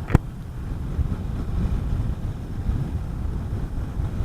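A sharp click just after the start, then low wind rumble buffeting a motorcycle helmet microphone while riding a Honda CB400SS, mixed with the bike's running noise.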